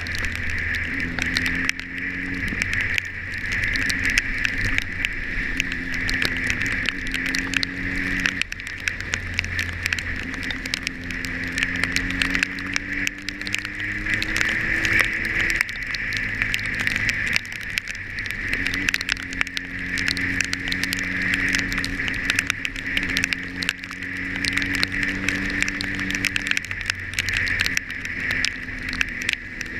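Motorcycle engine running on the move, its pitch climbing slowly as it pulls and dropping back at gear changes several times, over a steady hiss of wind and wet road.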